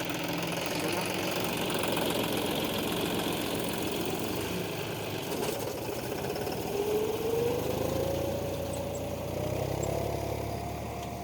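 John Deere 5405 tractor's diesel engine running steadily, with a whine that rises gradually in pitch over the second half and levels off near the end.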